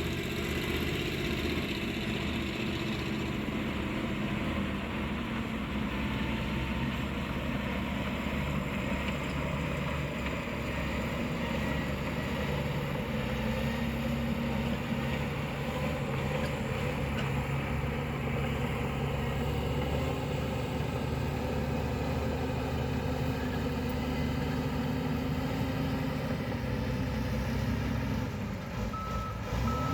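Engine of a heavy construction machine running steadily, with a steady low hum. A reversing beeper starts its regular beeps near the end.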